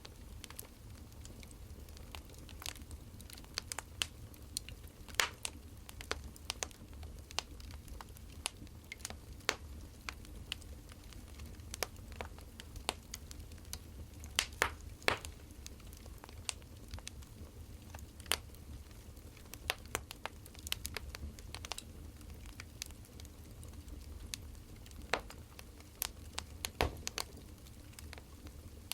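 Wood fire crackling: irregular sharp pops and snaps, a few louder ones around the middle, over a low steady rumble.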